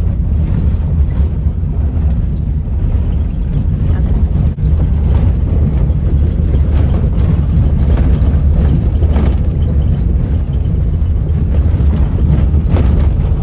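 A vehicle driving, giving a steady, loud low rumble of engine and road noise.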